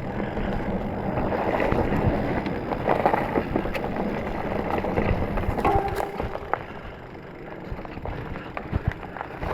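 Specialized Stumpjumper mountain bike rolling over a rocky trail: tyre noise with a constant rattle of small knocks from the bike, and wind on the camera microphone.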